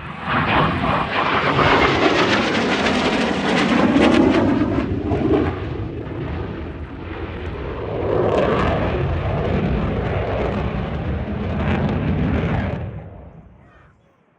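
Military jet passing overhead at an airshow: loud jet engine noise swells in within the first second and holds for about twelve seconds, with a falling whine as it goes by, then fades away near the end.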